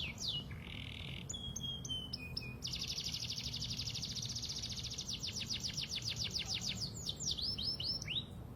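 Domestic canary singing: falling whistled notes and a short buzzy note, then a long fast trill of repeated notes, ending in quick downward-sweeping notes.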